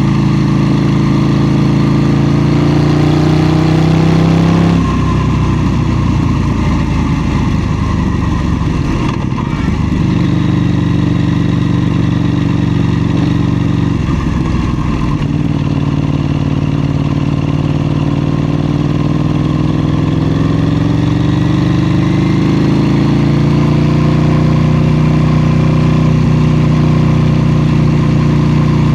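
KTM 790 Duke's parallel-twin engine under way, its pitch rising as it pulls. About five seconds in the throttle closes and the note turns rough on the overrun, then it pulls again, the pitch climbing steadily through the second half.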